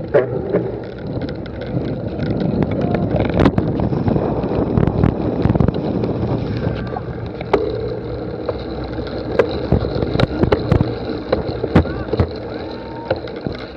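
Outdoor race crowd noise: a steady wash of distant spectators' voices, broken by many scattered sharp clicks and knocks.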